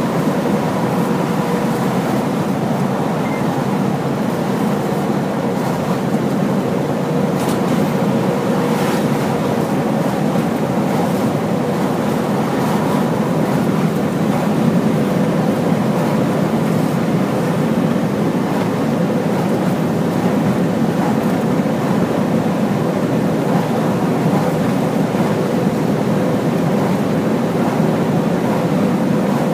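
Large Hino truck driving at a steady speed: a continuous engine drone with road and tyre noise, holding the same level throughout.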